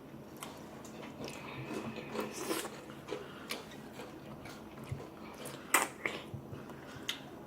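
Someone biting and chewing watermelon close to the microphone: irregular wet crunches and clicks, the sharpest a little before six seconds in.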